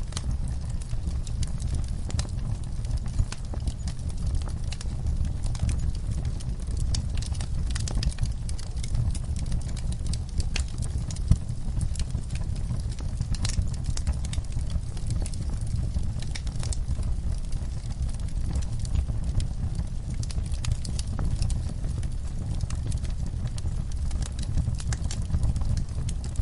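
Wood fire burning in a fireplace: a steady low rumble of the flames with frequent sharp crackles and pops, a couple of them louder.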